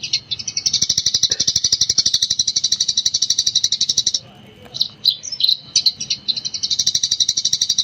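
Eurasian tree sparrow chattering in a fast, non-stop run of high chirps. The run breaks after about four seconds for a few single chirps, then starts again.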